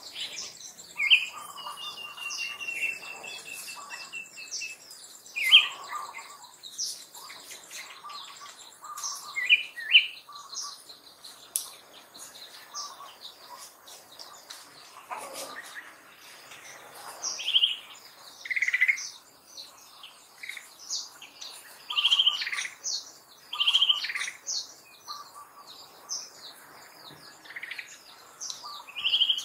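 Wild birds chirping and calling: short, sharp calls every second or two over fainter high twittering, with one steady high whistle held for a few seconds near the start.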